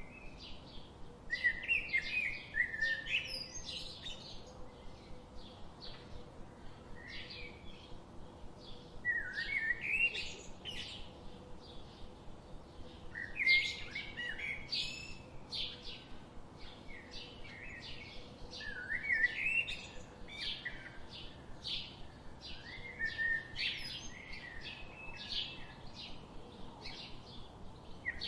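Birds singing: one bird repeats a short warbling phrase about every five seconds, with many brief high chirps from others in between.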